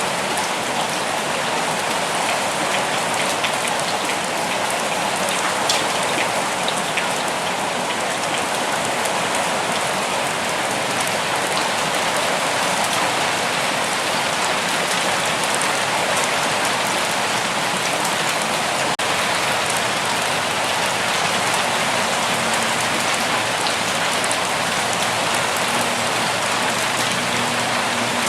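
Steady rain falling, an even hiss of many drops with a few separate drips standing out.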